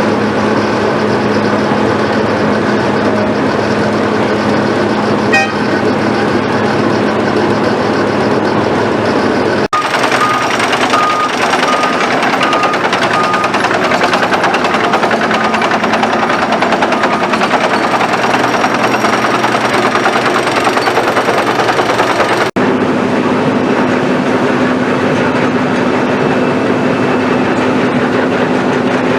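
Asphalt milling machine at work: a heavy diesel engine and cutting drum running steadily and loudly. The sound changes abruptly twice, and a row of even beeps sounds just after the first change.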